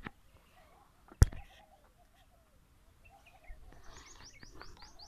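Birds chirping, with a rapid run of high chirps, about seven a second, in the last second or so. A single sharp click about a second in is the loudest sound.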